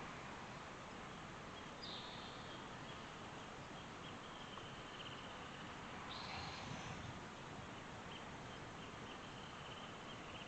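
Faint outdoor ambience: a steady hiss with soft high chirping and pulsed trills from small wild animals, with a short falling call about two seconds in and again around six seconds.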